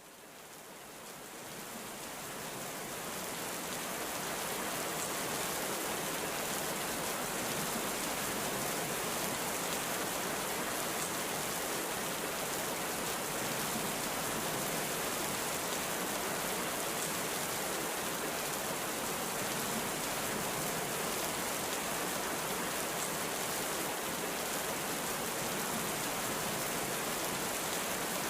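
Heavy rain falling steadily, fading in over the first few seconds.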